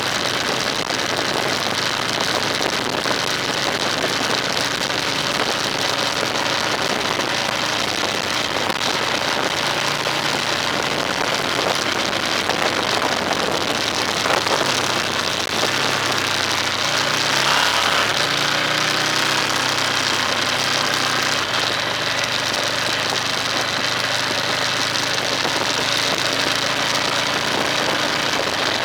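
Car engine running while driving, under a steady hiss of road or rain noise. The engine note shifts in pitch about halfway through.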